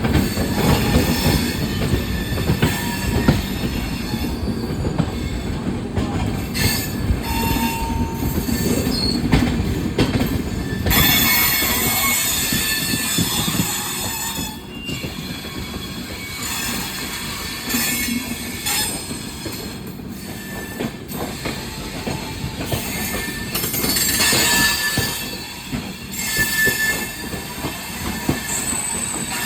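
Indian Railways train wheels running over points as the train changes tracks: a dense, irregular clatter of wheels striking rail joints and crossings, louder in the first half. Thin, high wheel squeals come in now and then, mostly in the second half.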